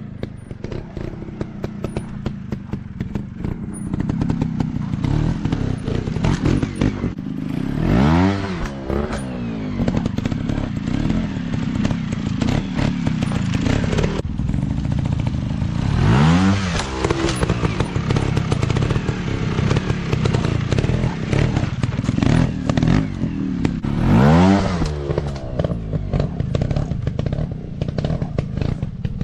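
Dirt bike engine running hard off-road, its revs surging up and falling back three times, about eight seconds apart, amid constant clattering knocks.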